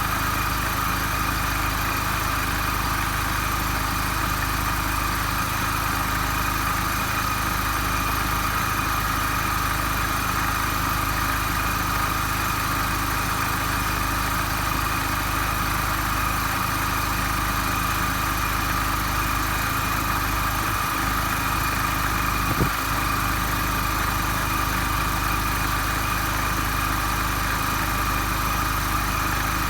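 R53 Mini Cooper S supercharged four-cylinder engine idling steadily with a steady high whine over its hum, after repair of the belt tensioner damper, whose broken rubber bushing had caused an abnormal noise. A single short knock about 22 seconds in.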